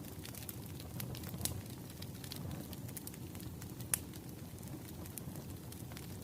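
Wood fire crackling: a steady low rumble of burning with frequent sharp pops and snaps, the loudest snap about four seconds in.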